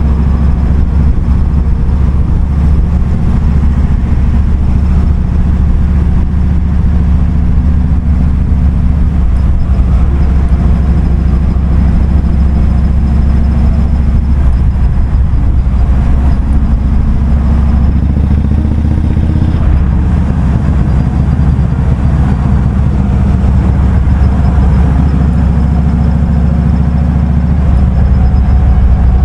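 Kawasaki Vulcan 2000's big 2,053 cc V-twin running steadily at low revs in slow traffic, with a slight rise in pitch about two-thirds of the way through.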